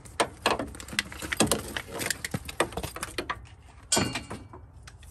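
Handling noise from a portable battery jump starter and its cables: a quick run of small clicks, taps and rattles, then a short scraping rustle about four seconds in.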